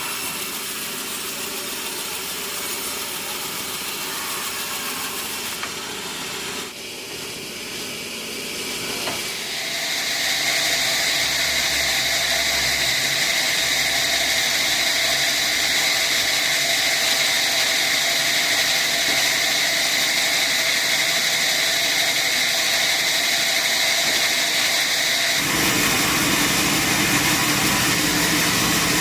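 Sawmill saw and machinery running steadily. About ten seconds in it grows louder with a steady high whine, and near the end a deeper engine-like rumble joins in.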